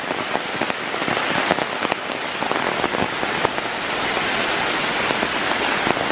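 Heavy rain falling on the forest canopy, a steady dense hiss of drops pattering on leaves with many sharp individual drop ticks close by.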